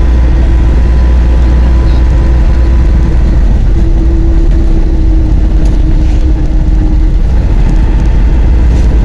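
Steady running noise of a moving road vehicle: a heavy low rumble with a constant drone from the engine and drivetrain.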